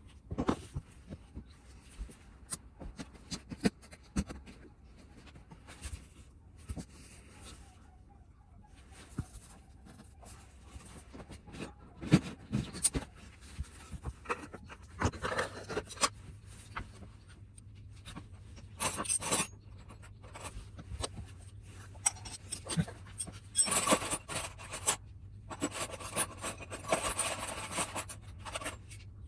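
Hand tools and metal parts clinking, knocking and scraping in irregular bursts while a Suzuki Swish 125 scooter's muffler is being taken off.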